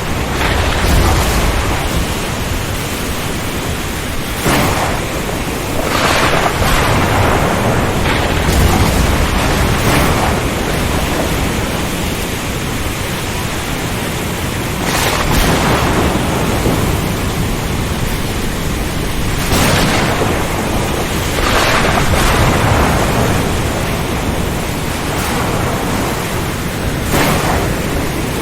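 Ocean storm: a steady rushing roar of wind and rain, with heavy surges every few seconds and a deep low rumble.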